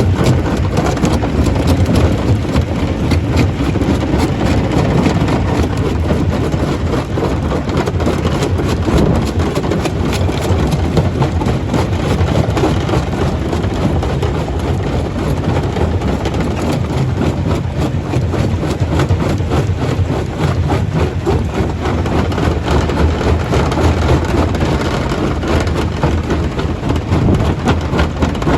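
Stone crusher running: a loud, steady heavy-machine noise with a dense, unbroken clatter of rock being broken.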